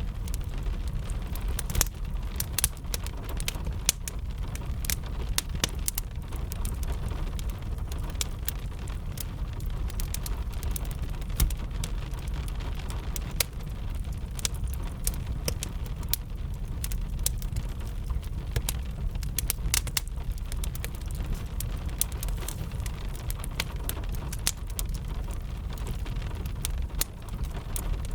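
Wood fire crackling with frequent irregular sharp pops and snaps, over a steady hiss of rain and a low, constant rumble.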